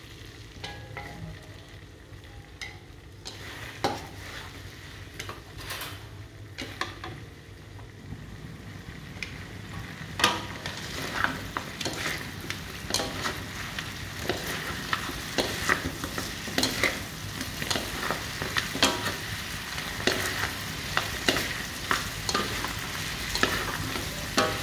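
Chicken pieces sizzling in a butter-garlic fish-sauce glaze in a pan while being stirred and tossed, the utensil clicking and scraping against the pan again and again. The sizzle grows louder after about eight seconds.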